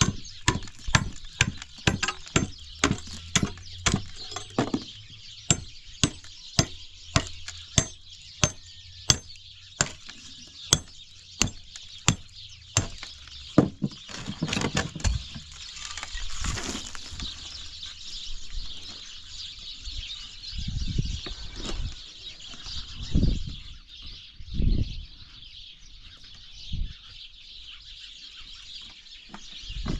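Sharp knocks, like blows or chops, repeating about twice a second and stopping about halfway through. A steady high hiss follows, with a few dull thumps.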